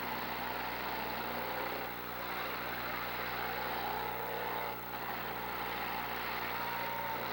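Demolition derby cars' engines running in the arena, with revs rising and falling near the middle.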